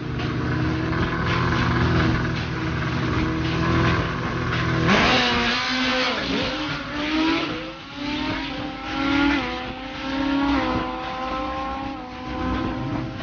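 Drag-racing motorcycle engine running steadily at the line, then launching hard about five seconds in and revving up through several gear changes, its pitch climbing in steps.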